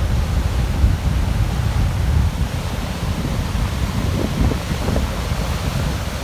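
Strong wind buffeting the microphone: a steady low rumble with an even hiss over it.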